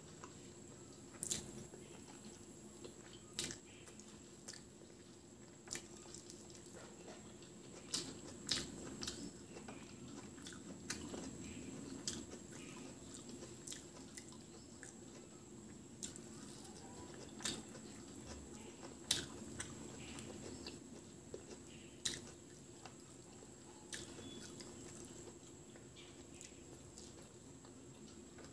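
Close-up eating sounds: a person chewing a mouthful of rice and fried egg omelette, with wet mouth smacks and clicks every second or two, over a faint steady hum.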